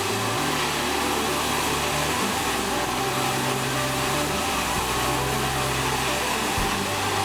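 Sawmill saw running steadily on acacia wood, a constant loud whine-and-rush, with background music and its bass notes over it.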